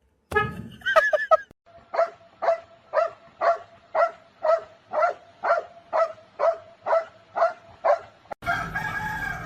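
An animal calling in a steady series of short, identical pitched calls, about two a second, after a brief warbling burst. Near the end the sound cuts to a different, longer held call.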